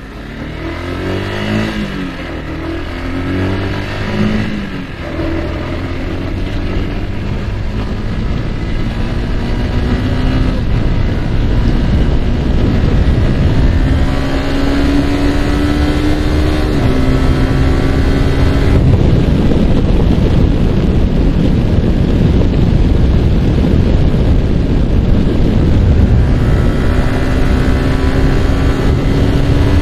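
Yamaha R15's single-cylinder engine pulling up through the gears, its pitch dropping at each shift in the first few seconds and again about halfway through. It then holds a steady pitch at cruising speed under a loud rush of wind on the microphone.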